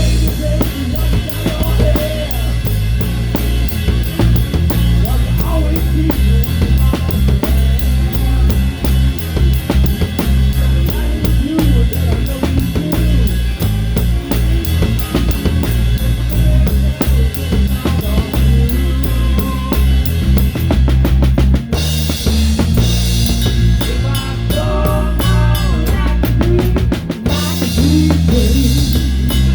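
Live band playing a rock number heard close up from the drum kit: Pearl kit with a towel-dampened snare, kick drum and a busy, steady beat over bass and electric guitar. About two-thirds of the way in, the cymbals open up into a bright wash that carries on almost to the end, with a short break in the bass just before it closes.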